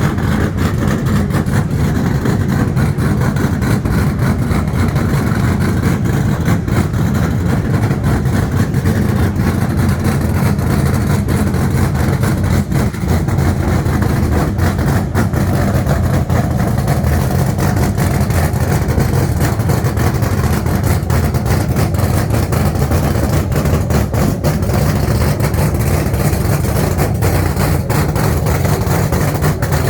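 A motor vehicle engine running steadily and loudly, with no clear rise or fall.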